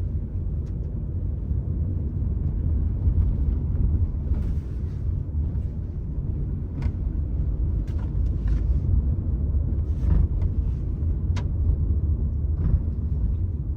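Steady low rumble of a car driving slowly, heard from inside the cabin, with a few light clicks scattered through it.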